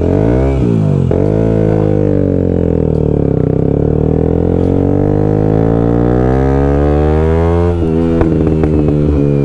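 Motorcycle engine under hard acceleration, heard on the bike. There is a quick rev in the first second, then a long sustained pull, and the note breaks up with rapid changes about eight seconds in, like gear shifts.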